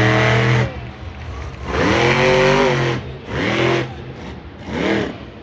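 Monster truck engine revving in four throttle bursts, the pitch climbing and falling with each, the longest about a second and a half, idling in between.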